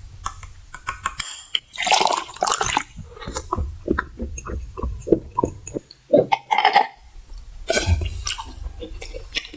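Close-miked wet eating sounds: irregular slurps, squelches and small clicks of a mouth eating and drinking.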